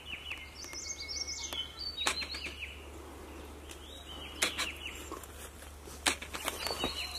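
Wild birds singing: phrases of short, repeated, downward-sliding whistled notes with some higher notes between them. Three sharp clicks cut in, about 2, 4.5 and 6 seconds in.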